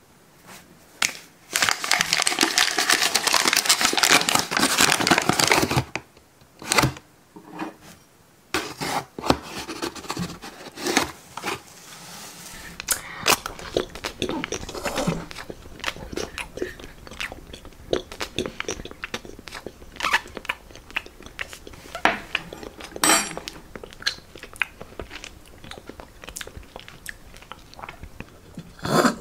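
Close-miked, exaggerated eating sounds of crunching and chewing. A dense crackling stretch of about four seconds comes near the start, followed by many scattered short crunches and smacks, the loudest right near the end.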